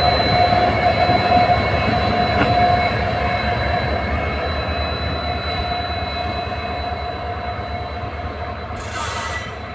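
Passenger train running on the rails: a steady rumble of wheels and track with a thin squealing tone held over it, getting gradually quieter. A short hiss sounds near the end.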